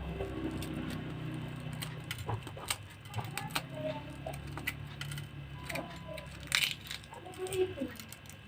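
Scattered small clicks and taps of food and utensils being handled while eating, a couple of them sharper, over a faint low hum.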